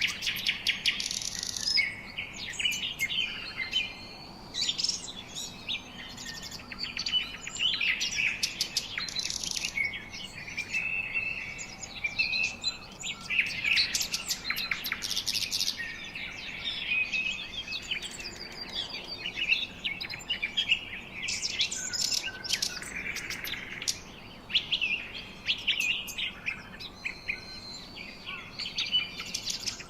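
Several birds chirping and singing at once, a busy overlapping chorus of short high calls and trills.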